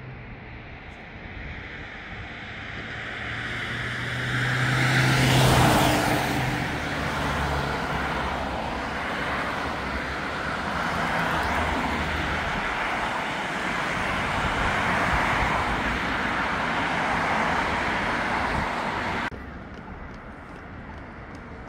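City street traffic, with a vehicle passing close and loudest about five seconds in, then a steady traffic rumble that cuts off abruptly near the end.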